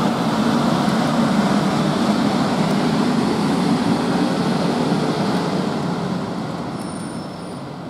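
South Western Railway Class 450 electric multiple unit, several units coupled, moving away along the track with a steady rumble of wheels on rail and running gear. The sound fades over the last few seconds as the train recedes.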